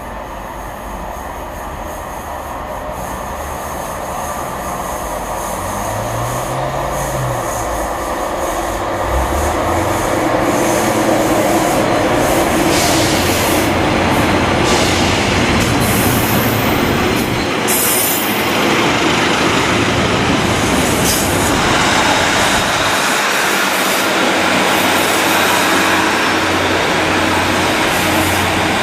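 Train running along the rails, getting louder over the first ten seconds as it approaches and then staying loud as it passes, with wheel-on-rail rumble and short sharp high sounds partway through.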